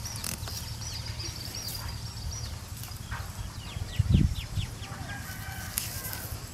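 Birds chirping: a quick run of short high chirps, then a rapid series of short notes and some softer calls, over a low steady rumble. A dull thump about four seconds in.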